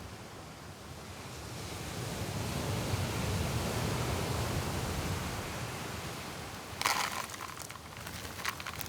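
Strong wind and surf on an open beach: a low rumbling rush of noise that swells and eases, with a brief burst of rustling clicks about seven seconds in.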